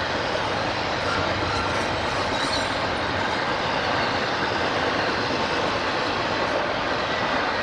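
A train rolling past on the main line, with a steady, continuous noise of wheels running on rail.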